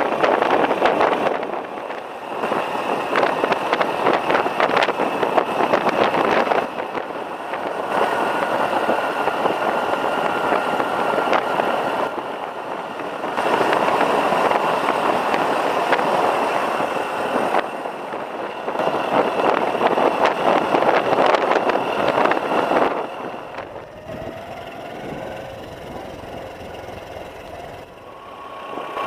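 Small Honda Cub motorcycle under way, its single-cylinder engine running beneath a heavy rush of wind and road noise. The sound changes abruptly every few seconds, and near the end it turns quieter, with the engine note rising and falling at low speed.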